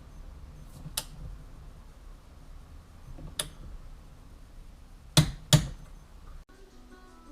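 A few sharp clicks and knocks over a low steady rumble, the loudest two close together about five seconds in. Near the end the sound cuts off and quiet guitar music begins.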